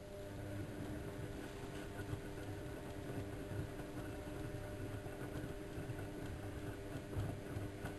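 Bauknecht WA1400 Dolphin washing machine starting up and running with a steady motor hum, with irregular light knocks and clatters over it.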